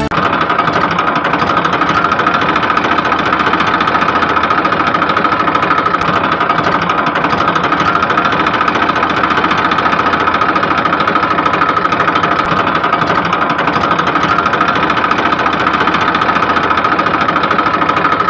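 Small motor running steadily with a fast, even chugging pulse and a constant whine.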